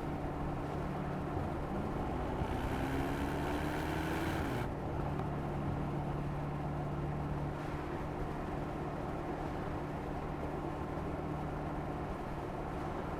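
Mercedes-AMG SL 63's 4.0-litre twin-turbo V8 running with a steady drone. Between about one and five seconds in, a rising note climbs as the car accelerates, then cuts off abruptly.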